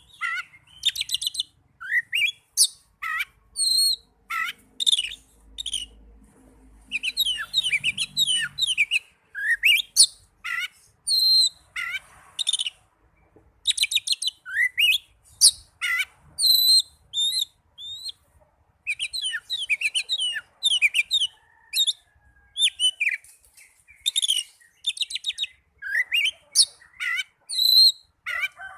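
Oriental magpie-robin (kacer) singing in fighting mode: a rapid, varied run of short high chirps, whistles and trills with brief pauses between phrases.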